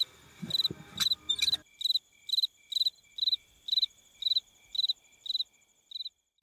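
Cricket chirping steadily, about two short high chirps a second.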